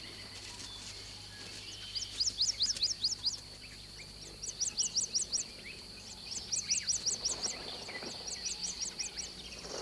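A bird singing four quick phrases of rapid, rising high chirps, each about a second long and about six or seven notes to the phrase. A steady high-pitched hum runs behind it.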